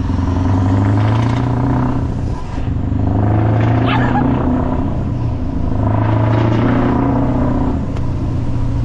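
Scania R500 V8 truck engine with a straight-piped side exhaust, pulling away under load. It runs in three steady pulls, each ending in a short drop, as it goes up through the gears.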